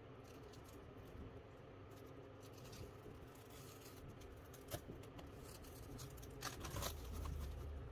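Faint handling noise: light scrapes and rustles with a sharp click about halfway through and a few more clicks near the end.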